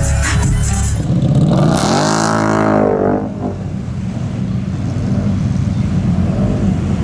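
Big mud truck's engine revving: the pitch climbs and drops about a second in, then it keeps running at a lower, steady speed. Music plays briefly at the start.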